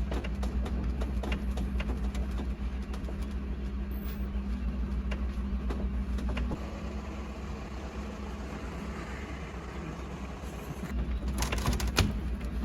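A vehicle engine running steadily with a low hum. It eases off about two-thirds of the way through and picks up again near the end, where a few sharp knocks are heard.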